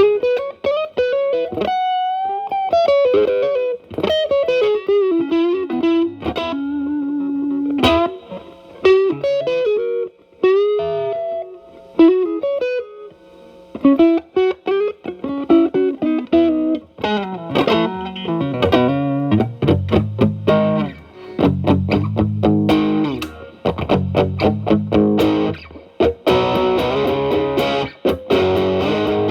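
Telecaster electric guitar through an E.W.S. Brute Drive distortion pedal set to low gain and cleaned up, into a Marshall Valvestate amp's clean channel, giving a lightly driven tone. It plays single-note blues lead lines with string bends, then turns to fuller chords and rhythm playing a little over halfway through.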